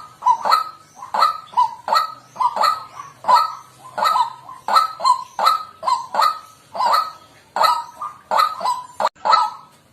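White-breasted waterhen calling: short 'kwak' notes repeated evenly, about two to three a second.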